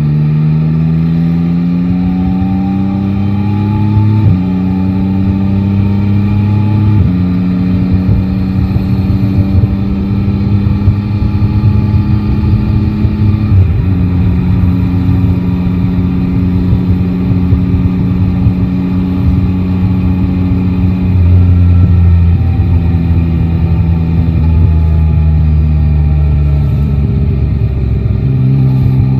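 Yamaha Tracer 9 GT's three-cylinder engine pulling away under throttle, its pitch rising and dropping sharply at each upshift about 4, 7 and 14 seconds in. It then holds a steady cruise, with wind and road noise underneath.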